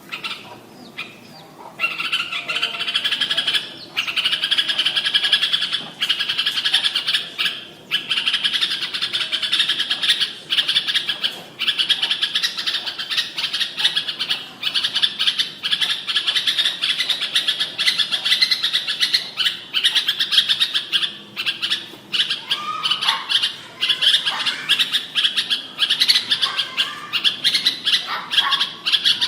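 Red-whiskered bulbul singing: dense, rapid high chirping that starts about two seconds in and carries on almost without a break.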